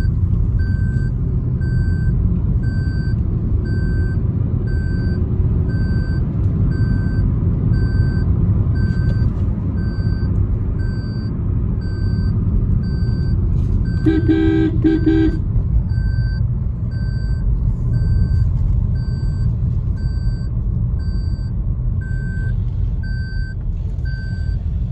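Steady road and engine rumble of a Maruti Suzuki Brezza being driven, with an electronic warning beep repeating evenly about one and a half times a second throughout. A vehicle horn sounds once for about a second midway.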